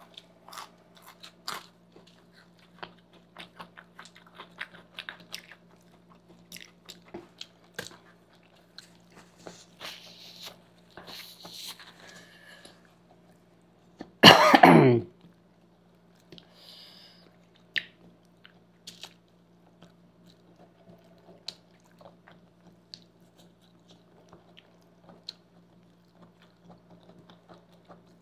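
Close-miked chewing and crunching of crisp fried chips and chowmein, with many small wet clicks and crunches, over a faint steady low hum. About halfway through comes one brief, louder throat sound like a cough, falling in pitch.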